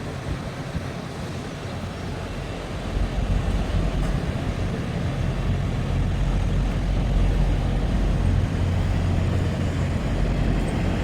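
Truck engine running with a steady low hum, getting louder about three seconds in.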